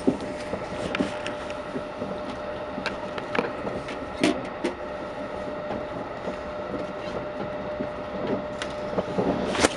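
Passenger train running at speed, heard from inside the carriage: a steady rumble with a faint steady hum, broken by irregular clicks and knocks, the sharpest near the end.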